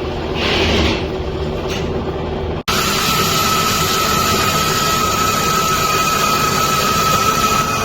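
Metal lathe running during machining, a steady mechanical noise with a constant whine. The sound cuts off abruptly for an instant about two and a half seconds in and resumes with a slightly different noise.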